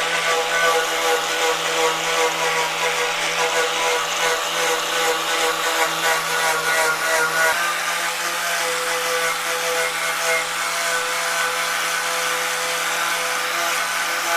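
A motor running steadily with a constant whine, typical of a workshop power tool. Its tone changes once, a little over halfway through.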